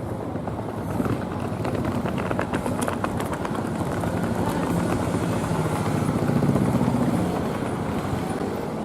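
HTM tram running past, a steady low hum that builds to its loudest about six and a half seconds in and then fades, with a run of rapid clicking from the wheels in the first few seconds.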